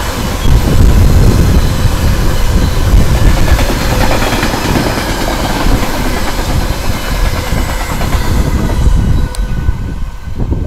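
Container train's wagons rolling past, steel wheels clattering on the rails. The noise dies away near the end as the last wagon goes by.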